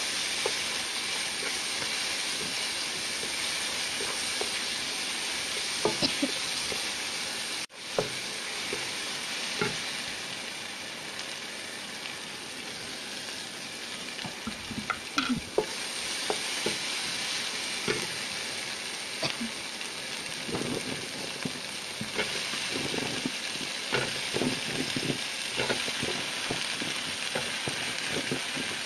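Chili spice paste, lemongrass and chilies sizzling in hot oil in a wok, stirred with a wooden spatula that scrapes and knocks against the pan. The sizzle is steady apart from a brief dropout about eight seconds in, and the spatula strokes come more often in the second half.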